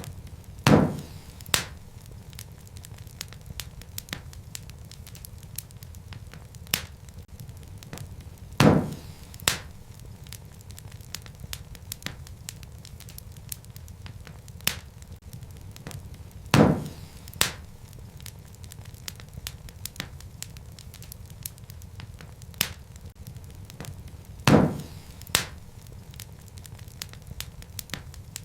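Wood fire crackling in a fireplace: a steady low rumble of flames with many small sharp crackles. Louder pops come about every eight seconds, each followed by a second pop under a second later.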